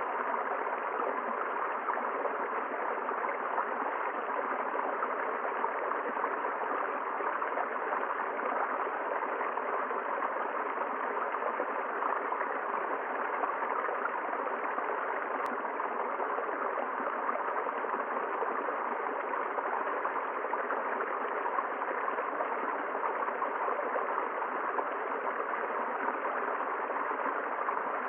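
A forest river flowing: a steady, unbroken rush of running water.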